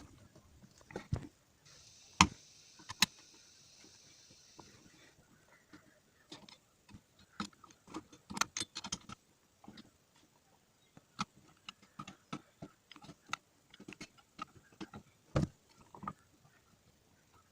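Irregular clicks and knocks of hand tools and metal parts being handled while a starter motor is worked on, with a brief hiss about two seconds in.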